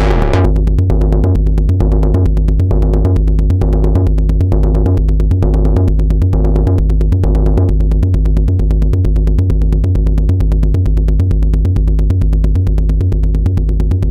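Moog Subharmonicon analog synthesizer playing a fast, percussive sequenced pattern of low, stepping notes with stacked subharmonic tones. The bright top closes off in the first half second. Brighter accents then come back about twice a second until about eight seconds in, after which only the low pulsing notes go on.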